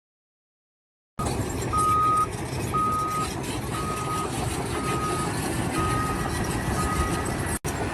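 A vehicle reversing alarm beeping six times at a steady pitch, about once a second and growing slightly fainter, over a steady low rumble of machinery. The sound starts about a second in, after dead silence.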